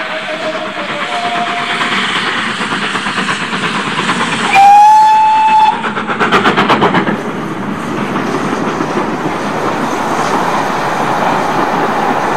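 HO-scale model train running along the track with a steady rolling clatter. About halfway through it gives one horn blast lasting about a second, followed by a short burst of rapid clicking.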